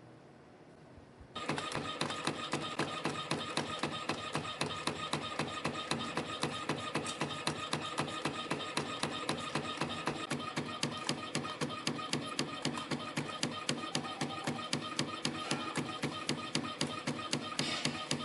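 CNC spring coiling machine starting up about a second and a half in, then running steadily with rapid, even mechanical clicking, about four a second, as it coils 0.5 mm wire into straight compression springs.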